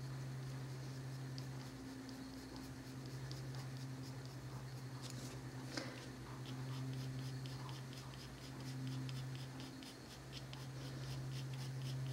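Black coloured pencil lightly shading on paper: a run of faint, quick, even scratchy strokes, over a steady low hum.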